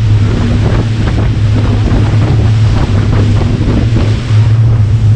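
Motorboat engine running steadily with a constant low drone, wind buffeting the microphone and water rushing past the hull.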